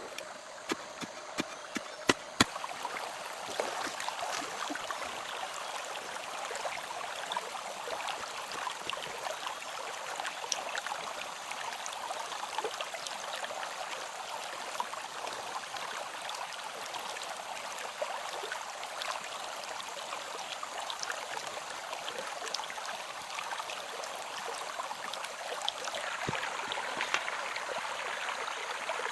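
Steady rush of running water, a small stream, with a few sharp knocks in the first two or three seconds.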